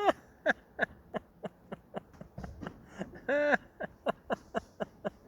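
A pet animal giving a rapid series of short, arching calls, about three a second, with one longer call about three seconds in.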